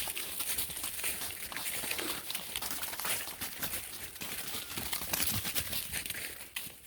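Dense, irregular crackling and rustling of dry leaves and brush, as goats move and browse through dry vegetation.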